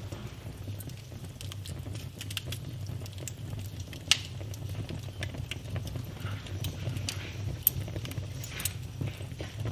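Wood fire in a fireplace crackling, with frequent small clicks, two sharper pops about four seconds in and near eight seconds, and a steady low rumble underneath.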